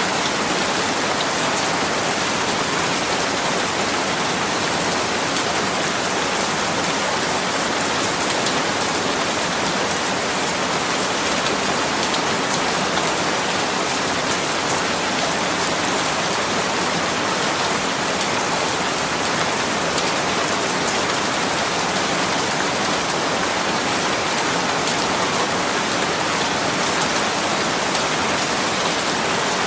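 Steady rain falling on a surface, an even hiss of many drops with fine patters and no thunder.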